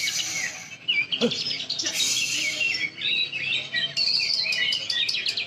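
Cucak ijo (greater green leafbird) songbird singing hard: a fast, varied run of chirps, whistled glides and trills with no pauses.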